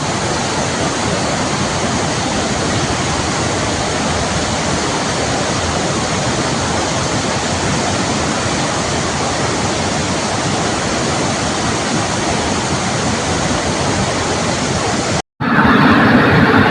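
A waterfall in flood: a loud, steady rush of heavy falling water. Near the end it cuts off abruptly, and a louder, different steady sound follows.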